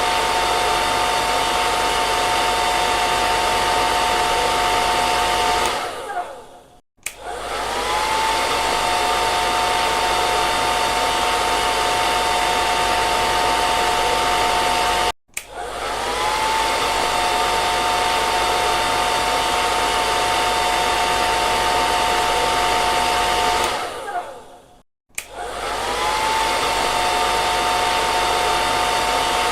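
Electric hair dryer running with a steady airy rush and a high motor whine. It winds down to silence about six seconds in and again near the end, each time starting back up within a second with the whine rising as the motor spins up. Halfway through it cuts out for an instant.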